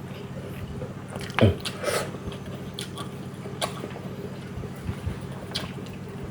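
Close-miked eating sounds from a cooked patin (pangasius catfish) fish head being finished: chewing with a few sharp mouth smacks and clicks, the loudest about a second and a half in. A steady low hum runs underneath.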